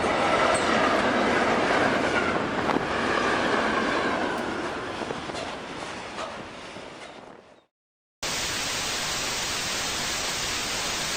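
Train running noise from a railway sound effect, fading out over about seven seconds until it stops. After a short gap a flat, steady hiss starts and runs on unchanged.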